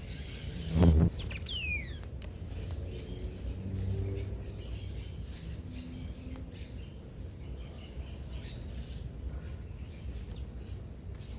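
Several small birds chirping and twittering at a feeder, with one clear falling whistled note near the start. A brief low thump about a second in is the loudest sound.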